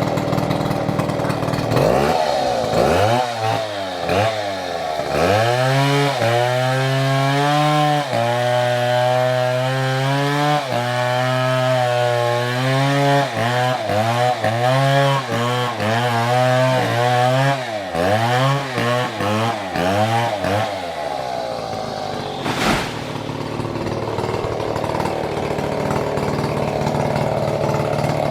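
Two-stroke Stihl chainsaw, its engine pitch swooping up and down over and over for most of the time. In the last several seconds it runs at a steady high pitch, with one sharp knock.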